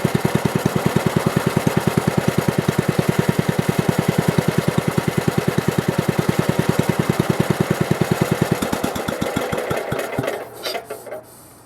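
Mitsubishi Meiki G5L-3A air-cooled kerosene engine running with a quick, even beat of firing pulses. About two-thirds of the way through, the beats slow and spread apart, and the engine coasts to a stop with a few last rattles as it is shut down.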